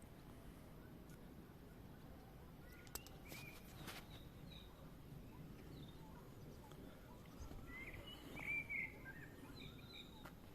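Faint outdoor ambience with small birds chirping now and then, a louder run of chirps about eight and a half seconds in, and a few light clicks a few seconds in.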